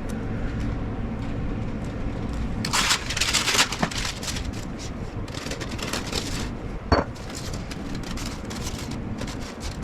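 Dry, hard pieces of dehydrated chicken being stirred and pulled apart by hand, crackling and scraping, with a louder rustle about three seconds in and a sharp click near seven seconds, over a steady hum.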